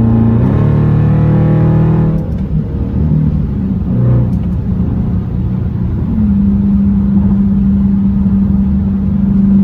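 Car exhaust with the mid muffler deleted, accelerating hard with the engine note climbing for about two seconds, then backing off. From about six seconds in it settles into a loud, steady drone at cruise.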